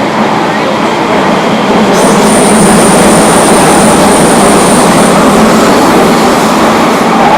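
Athens metro train running, a loud steady rumble of wheels on the rails. About two seconds in, a thin high-pitched wheel squeal sets in and holds for about three seconds.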